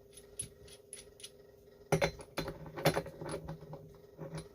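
Metal hand tools clinking and clanking as they are handled on a workbench: light clicks at first, then louder clanks about two and three seconds in, over a faint steady hum.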